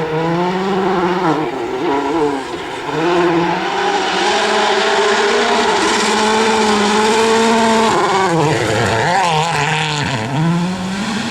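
VW Polo R WRC rally car's 1.6-litre turbocharged four-cylinder engine revving hard through gear changes. Its pitch holds high and steady for several seconds in the middle, then dips and climbs quickly several times near the end as the car brakes and shifts.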